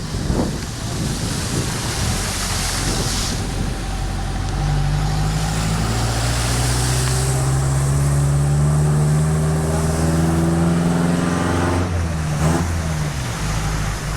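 A vehicle engine accelerating, its pitch rising gradually for several seconds before dropping away, over a steady hiss of rain and wind.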